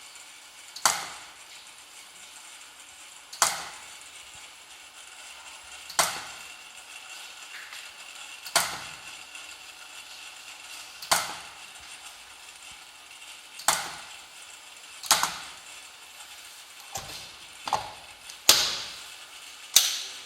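Megger SWG-1750 surge wave generator firing high-voltage surge pulses into a test load, one sharp crack about every two and a half seconds, coming faster and less evenly near the end.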